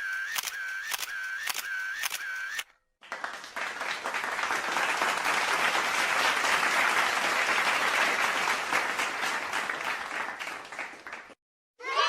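A camera shutter clicking about three times a second, each click with a short tone, stopping after about two and a half seconds. After a brief gap, a crowd clapping swells and then fades out over about eight seconds.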